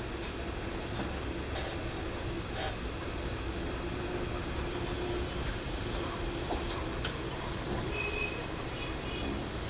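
Hot air rework gun blowing a steady stream of hot air, with a faint low hum under the hiss, while it heats a NAND flash chip to solder it onto a circuit board. A few faint clicks come through in the first half.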